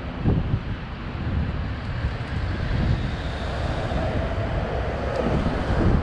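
Wind buffeting the microphone of a rider on a moving e-bike, over a steady rumble of road and traffic noise.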